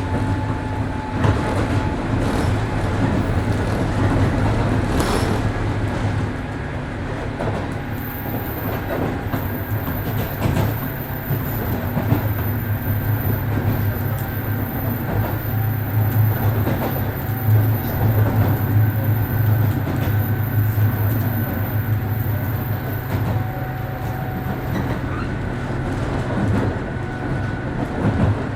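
Cabin running sound of a 103 series 1500 electric train: a steady low rumble and hum from the motors and wheels, with scattered rail-joint clicks. A thin high-pitched whine sounds through much of the middle.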